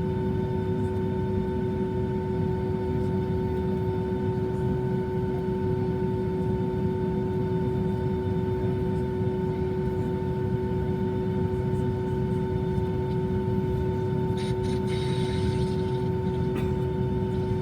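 Airplane engines running steadily: a low rumble under several constant whining tones, with no change in pitch. There is a brief hiss about fifteen seconds in.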